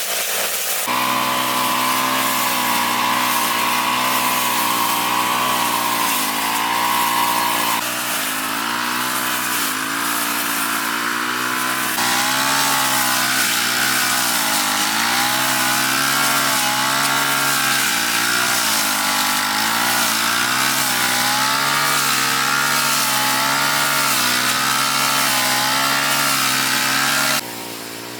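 Small petrol grass-cutter engine running at high speed, its pitch dipping and recovering again and again as it works through grass. It drops noticeably quieter near the end.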